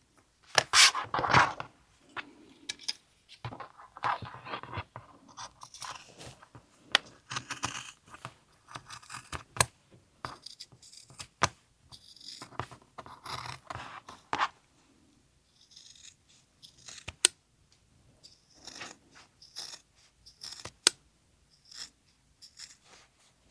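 A pair of scissors cutting through a stack of several fabric layers at once, in irregular runs of snips and sharp clicks with short pauses. The thick stack is hard going, a mistake to cut all at one time.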